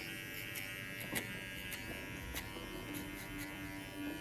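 TPOB GO hair clippers running with a steady electric buzz while cutting hair, with several short sharp clicks spread through it.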